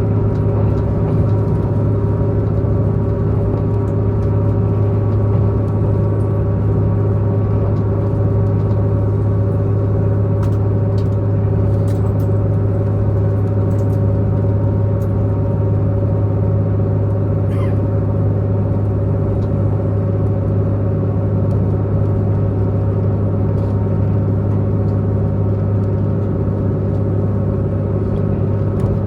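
Diesel multiple-unit express train's diesel engine running steadily at speed, a loud constant drone with fixed humming tones over the rumble of the running gear, heard from inside the passenger car. A few faint clicks sound near the middle.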